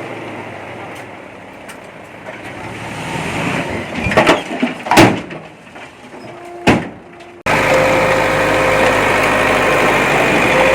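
Heavy earthmoving machinery running, with three sharp, loud clanks about four, five and nearly seven seconds in. About seven seconds in the sound cuts abruptly to a louder engine running steadily with a constant tone.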